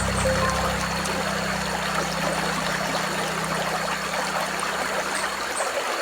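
River water flowing steadily, a dense rushing and trickling. A low hum under it fades away over the first couple of seconds.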